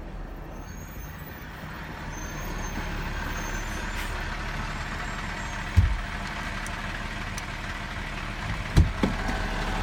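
City garbage truck approaching, its engine and road noise growing louder, with two sharp low thumps about six and nine seconds in.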